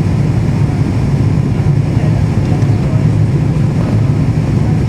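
Steady cabin noise inside a jet airliner: a constant low rumble of engines and airflow, with no change in level.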